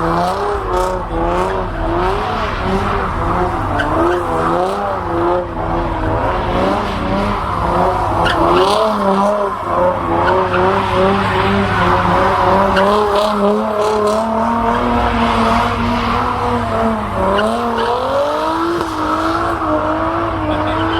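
Car tires squealing continuously, the pitch wavering as the car is held in a burnout or spun in donuts, over the steady rumble of its engine held at high revs.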